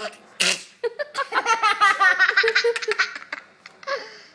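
A short breathy burst about half a second in, then about two seconds of rapid, high-pitched laughter in quick pulses.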